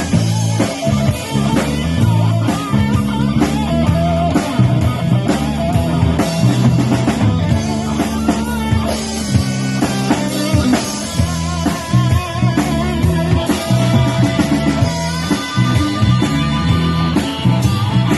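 Live rock band playing an instrumental passage: electric guitar over bass and a drum kit, with no singing.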